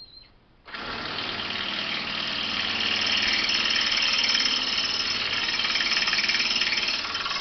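DeWalt 18-volt cordless drill running continuously on a recliner bolt. It starts abruptly about a second in and grows a little louder after that.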